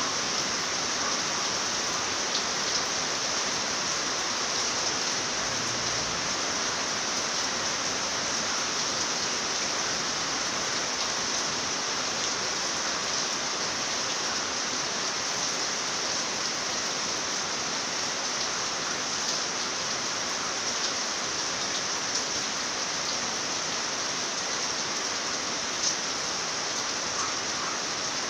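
Rain falling steadily, an even hiss with a few sharper drop ticks, one louder near the end.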